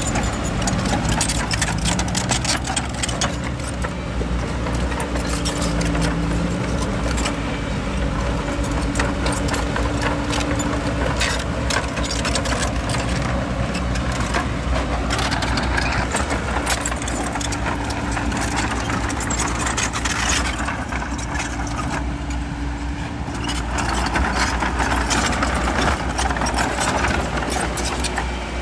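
Bulldozer's diesel engine running steadily, with constant clanking and rattling of the tracks and stone. A louder scraping layer comes in about halfway through and again near the end.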